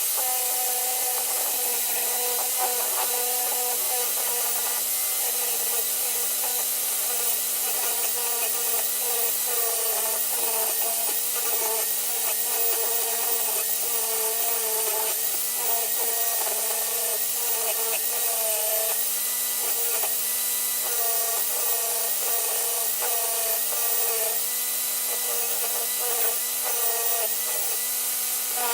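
Electric power tool running continuously at a steady pitch, scrubbing softened paint and rust off the old grinder's metal housing.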